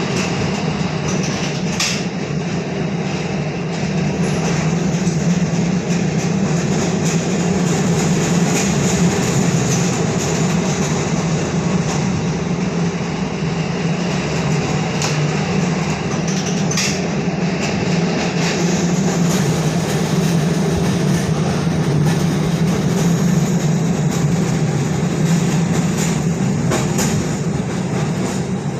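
Tampa streetcar running along its rails: a steady rumble of motor and wheels, with a few sharp clicks.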